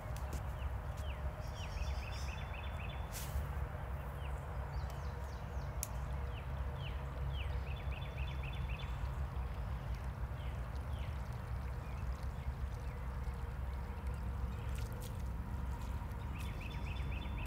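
Birds chirping and trilling on and off, with many short falling chirps and quick rattling trills, over a steady low rumble and a few sharp clicks.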